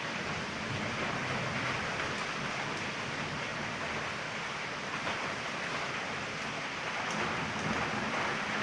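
Heavy rain falling steadily, an even hiss that swells slightly near the end.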